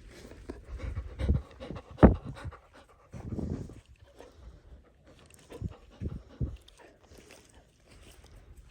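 A dog panting at close range in uneven spells, with a sharp knock about two seconds in.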